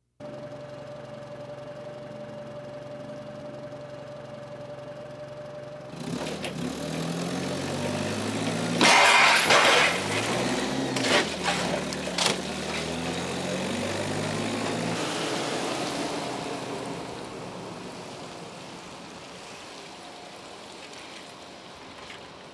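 Car engine running steadily, then revving and pulling away. A loud noisy burst comes about nine seconds in, and the engine sound fades after that.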